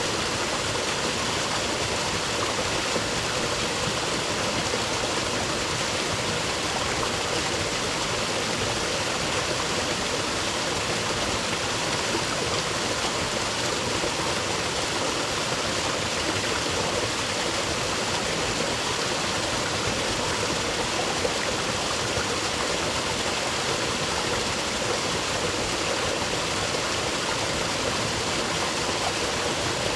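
Rainforest creek running steadily over rocks: a constant rush of flowing water with no breaks.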